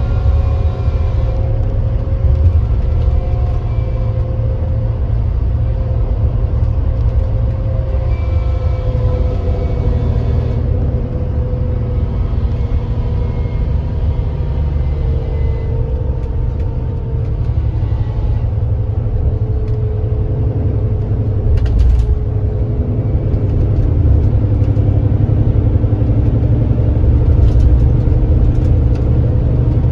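Kia Granbird Sunshine coach's engine running at speed with a steady heavy rumble; its pitch slowly drops over the first two-thirds, then rises and grows louder near the end as the engine pulls again.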